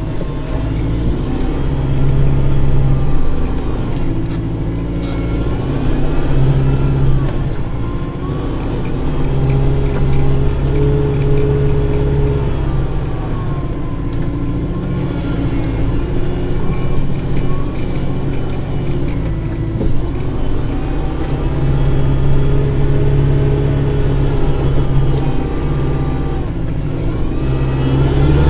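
Kubota tractor's diesel engine running steadily under load while blowing snow, its pitch dropping and picking up again several times as the load changes.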